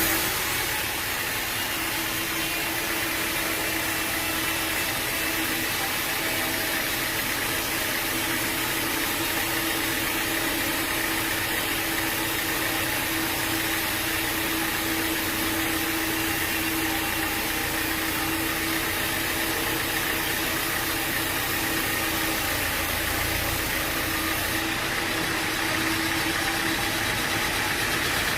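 Sawmill machinery running steadily: an even mechanical noise with a constant hum that does not change in pitch.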